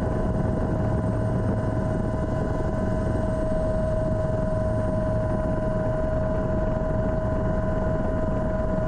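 Helicopter running steadily: constant engine and rotor noise with a steady high-pitched whine over it.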